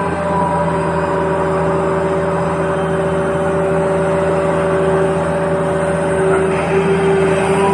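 Radio-controlled toy vehicle running, a steady whine of its small electric motors and gears, growing slightly louder near the end.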